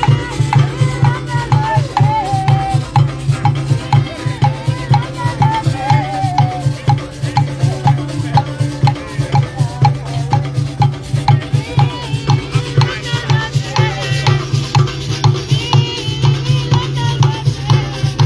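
Live band music: a steady drumbeat with shakers, about two to three beats a second, under a wavering melodic line.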